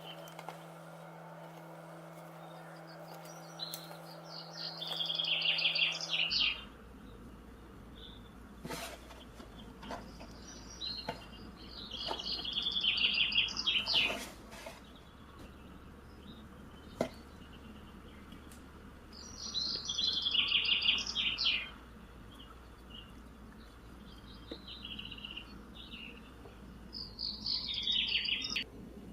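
A bird singing in short chirpy phrases, four of them about seven to eight seconds apart, with a few light clicks in between over a low steady background hum.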